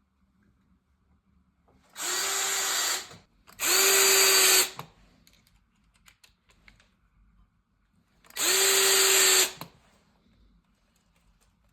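Power drill run in three short bursts, each spinning up quickly and holding a steady whine for about a second, as used to drive screw-in ice studs into a dirt bike tyre.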